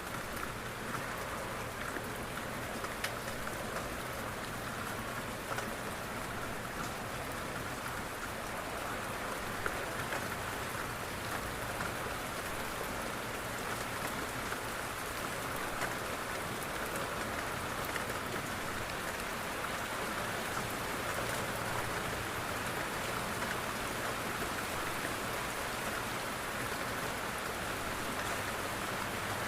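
Steady rain falling on a window pane, an even hiss with a few sharper drop ticks now and then.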